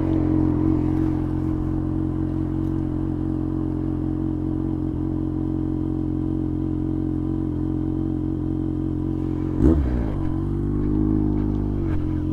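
Motorcycle engine idling steadily, with one quick throttle blip about ten seconds in.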